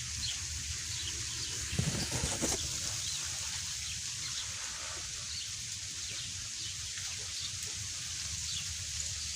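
Freezing rain falling and dripping as a steady hiss, with faint short bird calls through it and a couple of low knocks about two seconds in.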